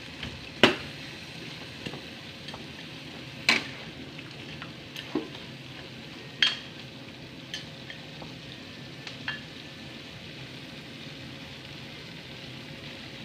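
Chicken pieces sizzling steadily in a metal wok as a metal spatula stir-fries them, with sharp clinks and scrapes of the spatula against the wok every second or two. The clinks stop after about nine seconds while the sizzle goes on.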